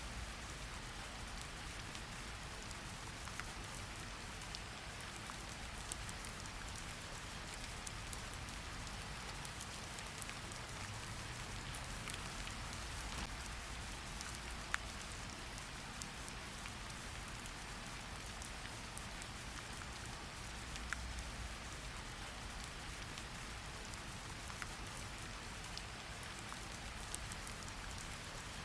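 Steady rain falling on a surface, an even hiss with scattered distinct drops ticking, one sharper drop a little past the middle.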